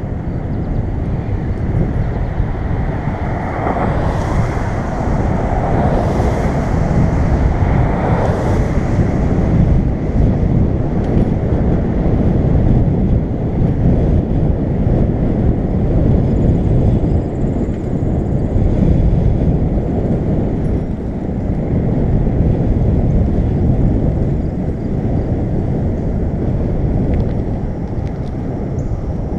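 Wind buffeting the microphone of a camera on a moving bicycle, a loud steady rumble. A brighter rushing hiss swells about three seconds in and fades by about nine seconds.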